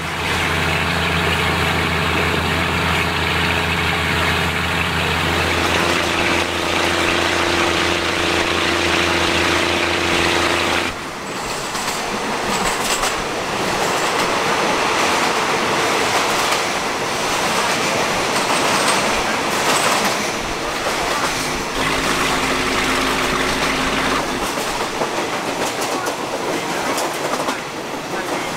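Diesel railcar running with a steady engine drone. About eleven seconds in the sound changes abruptly to a moving train's wheel-and-rail rush with scattered clicks over rail joints, heard inside the carriage through open windows; the low engine drone returns briefly near the end.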